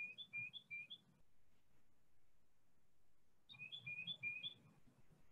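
A songbird singing two short phrases a couple of seconds apart. Each phrase is a quick run of two-note whistles, a higher note then a lower one, repeated about four times.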